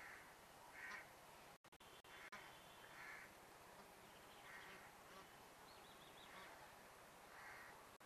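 Faint, short bird calls, repeated about once a second.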